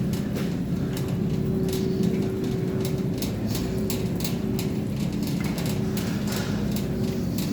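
Supermarket background noise: a steady low hum with a run of light clicks and rattles.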